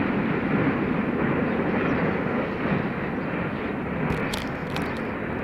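Freight train rolling past on the track: a steady rumble of wheels on rail that slowly fades, with a few sharp clicks near the end.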